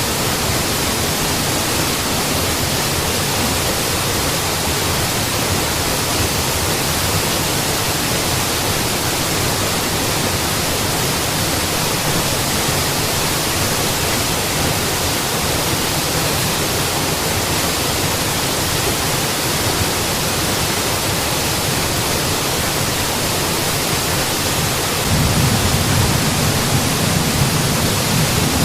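Waterfall rushing: a steady, dense roar of falling water that swells slightly in the low end near the end.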